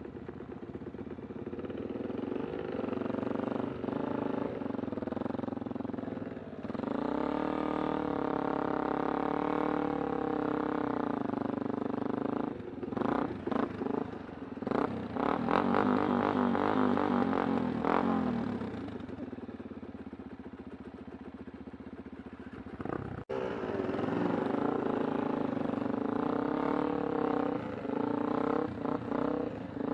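Kawasaki Super Sherpa's single-cylinder four-stroke engine running under way. It revs up about six seconds in, runs high and uneven with clatter for several seconds, then eases off, and cuts out abruptly for an instant about two-thirds through before running on.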